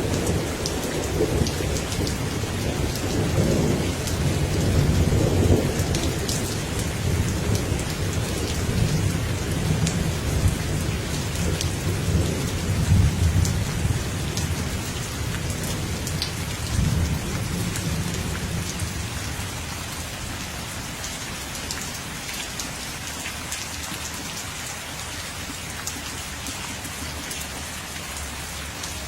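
Steady heavy rain falling, with a long low rolling rumble of thunder that dies away a little past halfway.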